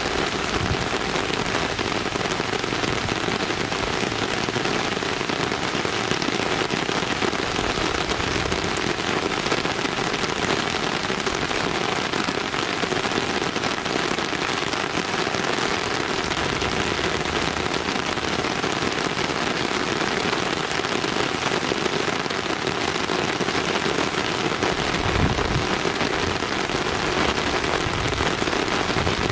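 Steady, dense hiss of rain-like noise with fine crackle throughout, and a low rumble coming in near the end.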